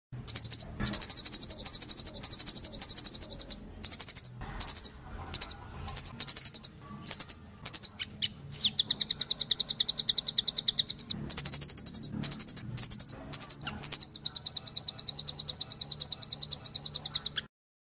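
Rambatan loreng ("rambatan doraemon"), a nuthatch, calling in fast, high-pitched rattling trills. The trills come in bursts of varying length with short gaps, including two long ones in the second half, and the recording cuts off suddenly near the end.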